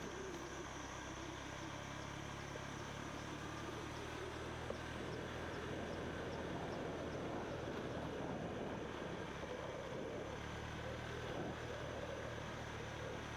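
Motorbike engine running steadily under way, with wind and road noise.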